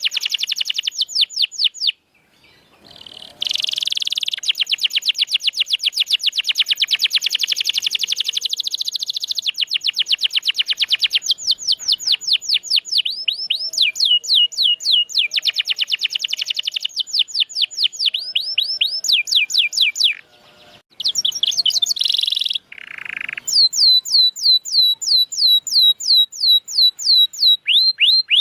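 Domestic canary singing a long, fast song of rapidly repeated sweeping notes, rolling trill after trill, with two short breaks: about two seconds in and again about twenty seconds in.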